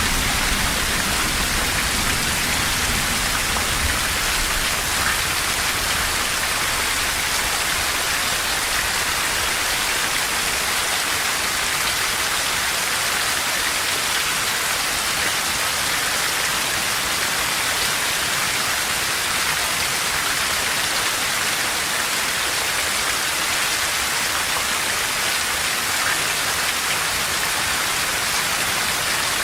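Steady heavy rain pattering on foliage and ground, an even dense hiss. A low rumble of distant thunder fades out in the first few seconds.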